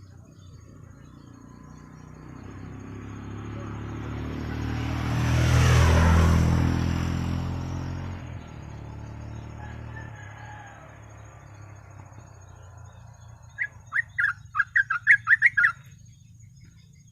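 A motor vehicle passes by, its engine and road noise building to a peak about six seconds in and then fading away. Near the end a sooty-headed bulbul sings a quick run of about ten loud notes.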